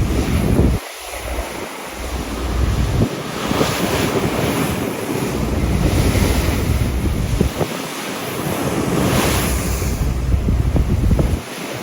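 Wind buffeting the microphone in uneven gusts over a steady rush of sea water and waves alongside a moving ferry.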